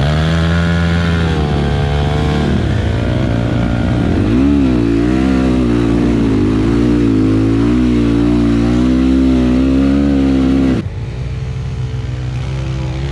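Enduro dirt-bike engine revving up and down under load, its pitch wavering constantly. About eleven seconds in it drops suddenly to a lower, quieter running sound.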